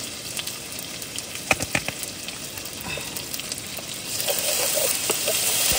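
Onions, tomatoes and spices frying in a pan, a steady sizzle, with a few sharp clicks about a second and a half in. The frying gets louder near the end.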